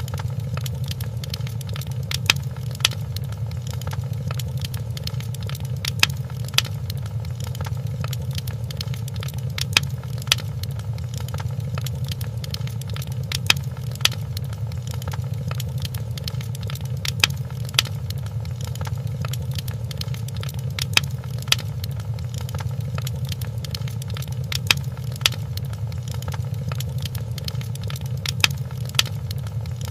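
Wood fire crackling in a fireplace: a steady low rumble of burning with sharp pops that come in pairs about every four seconds.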